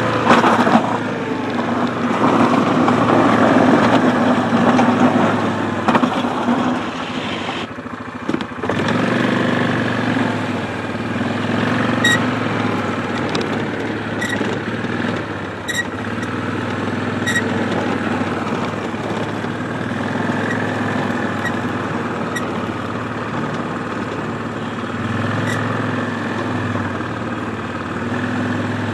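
ATV engine running, louder and busier for the first several seconds, then after a brief drop about eight seconds in settling to a steady, even run.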